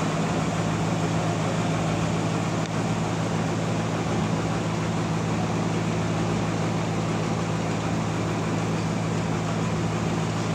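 Sawmill machinery running with a steady, unchanging drone.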